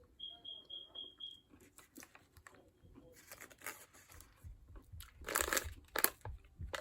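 Plastic snack wrapper crinkling as a chocolate bar is handled, in irregular bursts that grow louder about five seconds in. Near the start, a quick run of five short high beeps.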